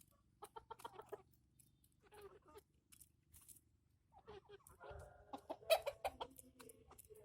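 Chickens clucking in short runs of quick notes, busiest and loudest in the second half, with a few sharp clicks mixed in.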